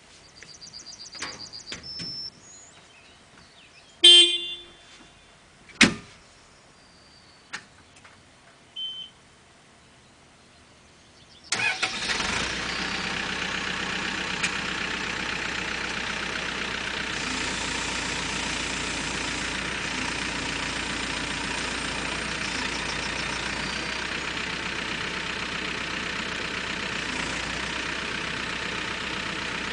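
Caterpillar 432E backhoe loader's diesel engine starting suddenly about eleven seconds in and then running at a steady idle. Before the start there are a few short electronic beeps, one brief loud horn-like tone and a sharp click.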